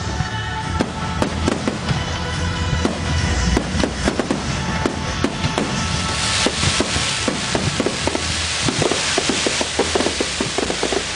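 Fireworks display: a rapid run of bangs and crackling, thickening about six seconds in into a dense, continuous crackle.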